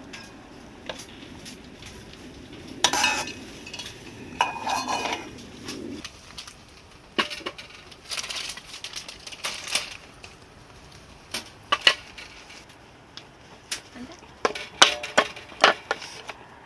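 Eating utensils clinking and scraping against dishes in short, irregular clicks while food is picked from a bowl.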